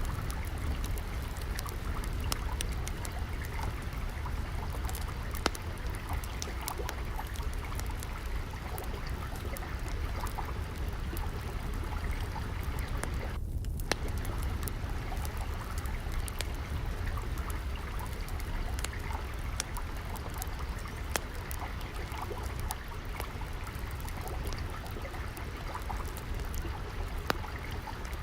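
Water trickling and flowing steadily, mixed with the scattered snaps and pops of a crackling wood fire. The hiss dips out briefly about halfway through.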